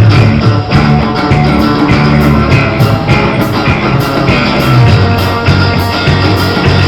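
Live rock band playing, with guitar over a heavy, moving bass line and an even rhythm of high strokes.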